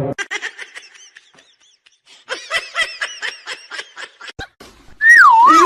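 High-pitched giggling laughter in quick short pulses, in two runs. Near the end a much louder tone sets in, wavering up and down in pitch.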